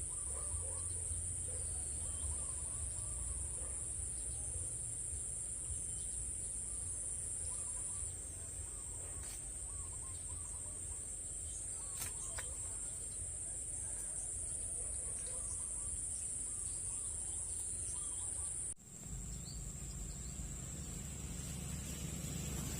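Steady, high-pitched drone of insects in the field, with a few faint bird chirps over a low rumble. About 19 s in it cuts off sharply and returns a little lower in pitch, with more low rumble.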